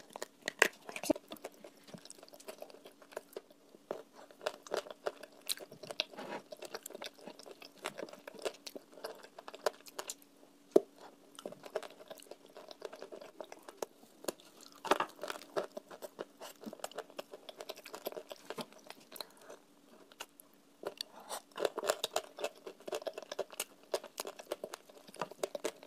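Close-up chewing and biting of a chunk of clay, with many small wet clicks and crackling crunches, densest near the end. The clay is still firm, not soaked long enough to soften, over a faint steady hum.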